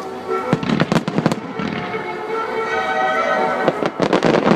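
Music-synchronised starmine fireworks: rapid volleys of aerial shell bursts and cracks, one cluster about half a second in and another near the end, over music with sustained tones.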